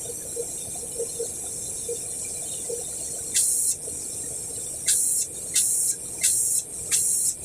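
A steady hiss of spraying air or liquid, then from about halfway through, short louder bursts of hiss about once every two-thirds of a second, as if a spray trigger is being pulsed.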